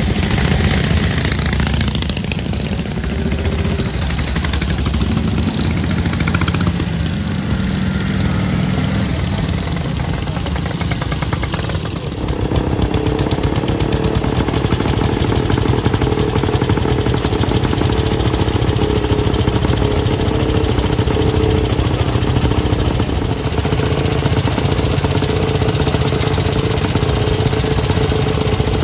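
Vintage motorcycle engines running: for the first dozen seconds one engine's note rises and falls with the throttle, then after an abrupt change a steady idle goes on.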